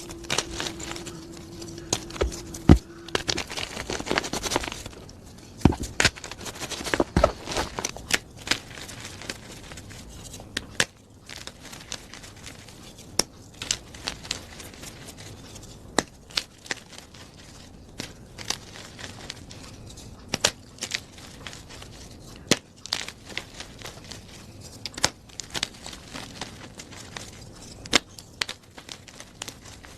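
Plain gym chalk being crushed: irregular crisp crunches and crackles as the blocks break and crumble into powder.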